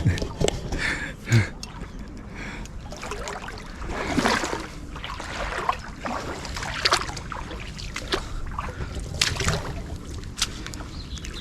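Shallow river water splashing and sloshing irregularly around someone wading barefoot, with a few sharp clicks.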